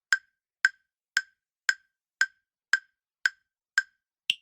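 Quiz countdown-timer ticking sound effect: nine short, sharp ticks about two a second, the last one near the end higher-pitched.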